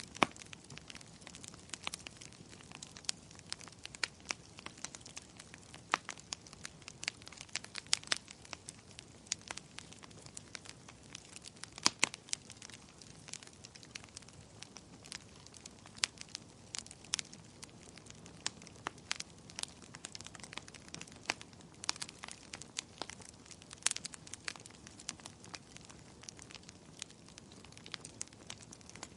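Wood fire burning in a fireplace: irregular crackles and sharp pops, several a second, over a faint steady hiss of the flames, with now and then a louder snap.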